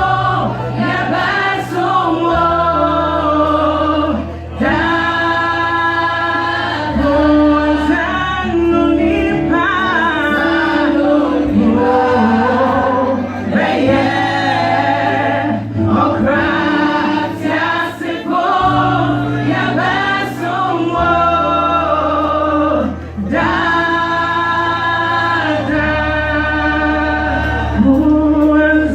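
Youth choir singing a gospel song in Twi, in held, wavering chords over steady sustained bass notes.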